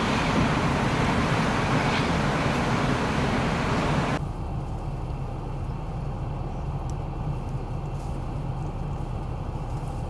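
Loud, steady rush of wind and road noise that cuts off abruptly about four seconds in, leaving a quieter low vehicle rumble with a few faint ticks.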